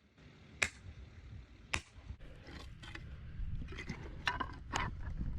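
Scattered sharp knocks and snaps over a low rumble, a couple early and more frequent in the second half.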